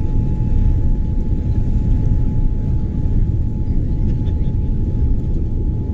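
Steady low rumble of cabin noise inside a Boeing 787 airliner, with a constant thin whine running through it.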